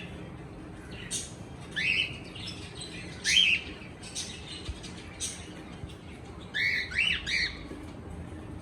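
Cockatiel chirping: short rising chirps at intervals, then a quick run of three near the end.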